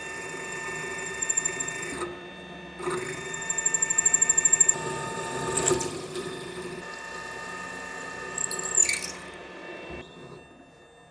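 A metalworking machine tool running with a steady whine while cutting metal, with two spells of loud, rapid squealing chatter; it stops about ten seconds in.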